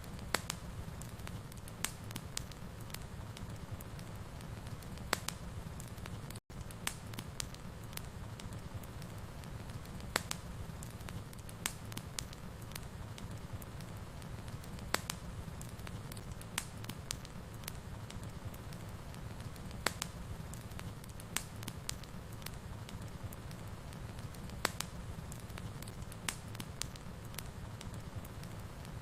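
Wood fire burning in a fireplace: a steady low rumble and hiss with irregular sharp crackles and pops. There is a split-second break to silence about six and a half seconds in.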